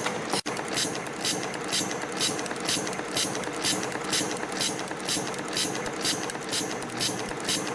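CNC wire and strip forming machine running as it forms 0.7 mm stainless-steel wire into flat rings. A quick, even clatter of about three to four strokes a second sits over a steady mechanical hum, with a momentary break about half a second in.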